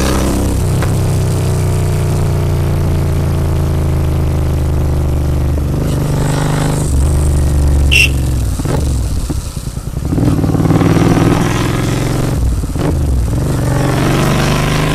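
Royal Enfield Continental GT 650's parallel-twin engine running through a Red Rooster aftermarket exhaust while riding, with a steady note. About nine seconds in the throttle briefly closes and the sound dips, then it picks up again.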